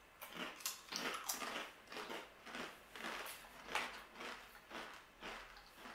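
Crisp, baked chicken-ramen snack pieces crunched in the mouth, about three crunches a second.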